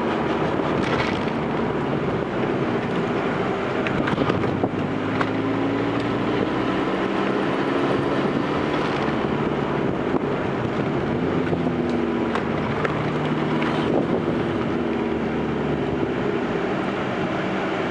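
Fiat Grande Punto 1.9 Multijet turbodiesel running under way, its engine note slowly falling and rising in pitch, over steady wind and road noise.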